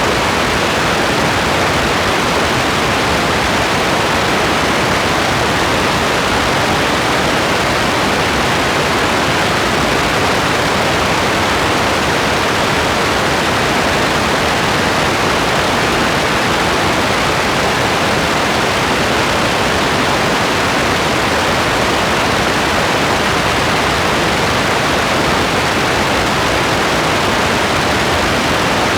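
Steady heavy rain: a dense, even hiss with no single drops standing out.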